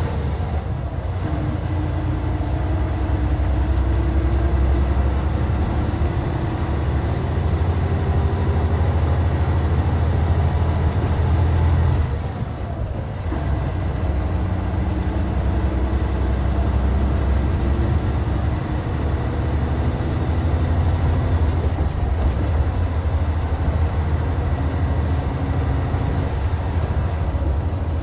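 Hyundai Universe coach's D6CC Powertec 380 straight-six diesel running under way, a steady low drone heard from inside the bus. It eases off briefly about halfway through, then pulls on again.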